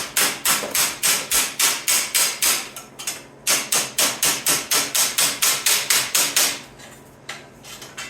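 Hammer striking a sheet-metal patch panel in quick, even blows, about four a second, to shrink the metal. The blows pause briefly about three seconds in, resume, and stop about two-thirds of the way through.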